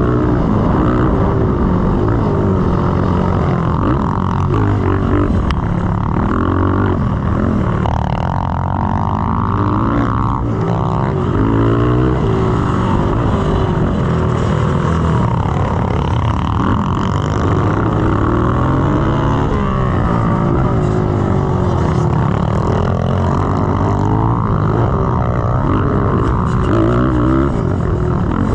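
Honda XR100R's single-cylinder four-stroke engine revving up and down repeatedly, the pitch rising and falling with each throttle change, with wind noise on the helmet-camera microphone.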